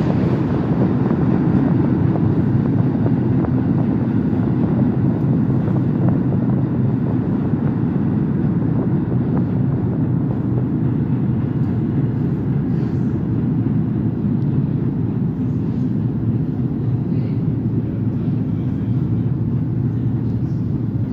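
Steady low rumble and hum of an underground train standing at the platform in the tunnel, with no distinct knocks or changes.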